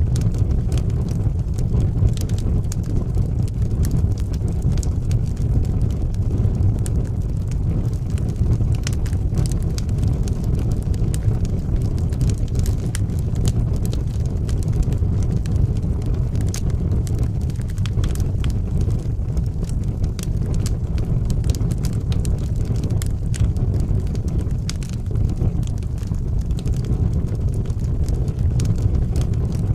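Wood fire burning in a fireplace: a steady low roar of the flames with frequent sharp crackles and pops from the burning logs.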